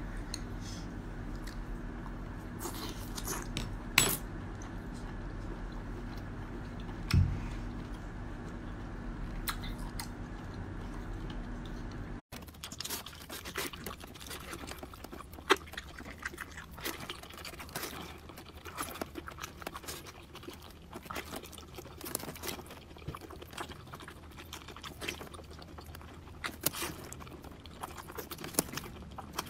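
Close-up eating of cooked octopus tentacles: wet chewing with many small irregular clicks and smacks. A steady low hum with a couple of knocks fills the first part and stops abruptly about twelve seconds in.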